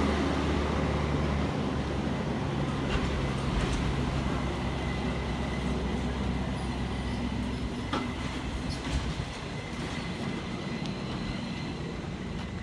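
Train moving slowly: a low locomotive engine drone with rolling cars, a faint thin wheel squeal and a few clanks, gradually fading away.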